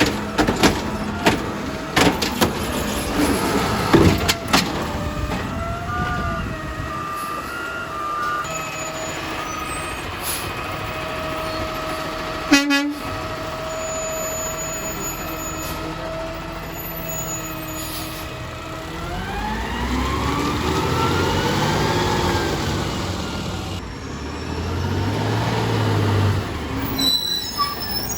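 Garbage truck at work: clanks and knocks at first, then a steady whine with a short sharp hiss near the middle, then the engine revving up and back down twice.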